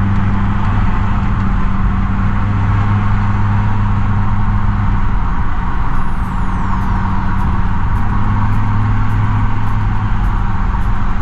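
A vehicle driving at a steady speed: an even engine drone with a low hum and road noise, unchanging throughout.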